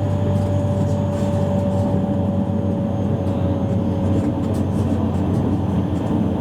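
Running noise inside a JR East E653 series electric train's motor car: a steady rumble of wheels on rail, with a thin whine that falls slowly in pitch over the first few seconds.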